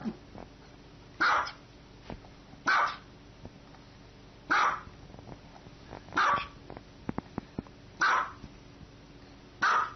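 Small white dog barking: six short, sharp barks spaced about a second and a half apart, with a few faint clicks about seven seconds in.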